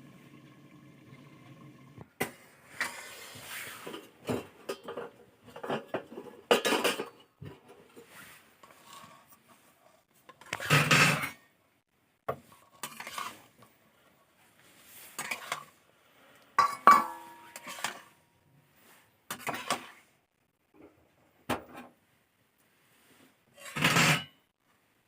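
Dishes and eating utensils clinking and scraping in irregular bursts, with a few louder clatters.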